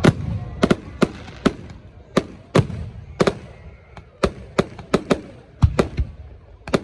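Fireworks going off: an irregular run of sharp bangs and cracks, about two a second.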